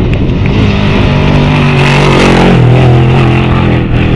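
A trophy truck's race engine passing at speed, loud, its pitch dropping as it goes by about halfway through.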